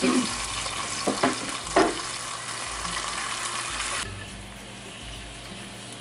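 Oil sizzling steadily around two corn tortillas frying into taco shells in a pan, with a few sharp clicks in the first two seconds. The sizzle drops to a quieter hiss about four seconds in.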